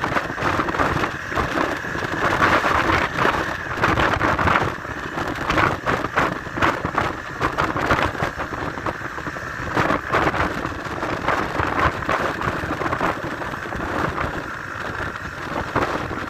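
Motorcycle riding along, its engine and road noise buried under heavy wind buffeting on the microphone: a loud, constant rush with irregular gusts.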